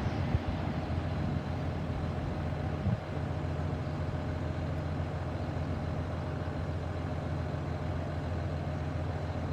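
Steady low engine hum, like a vehicle idling, holding an even level, with a small knock about three seconds in.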